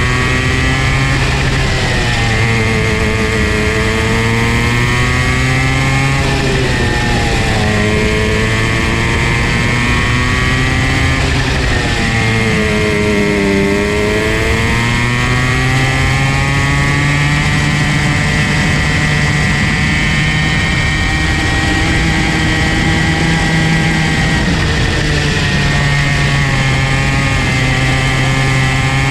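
Comer C50 50cc single-cylinder two-stroke go-kart engine running hard on track, its pitch falling and climbing again as the kart slows for corners and speeds back up, with two deeper dips about a third and halfway through.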